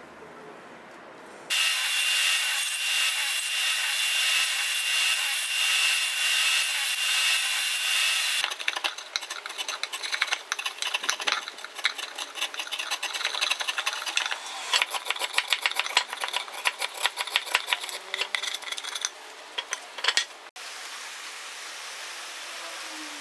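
A power tool running steadily on wood with a high whine, cutting off suddenly after about seven seconds. Then many rapid, irregular strokes of a tool rasping on wood for about twelve seconds. A steady hiss near the end.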